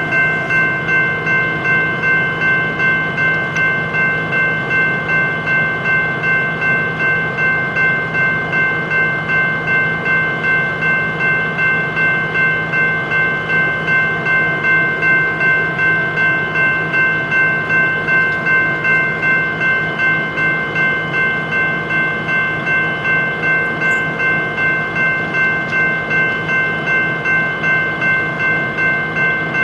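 Railroad crossing bell ringing steadily, about two strikes a second, each strike dying away before the next.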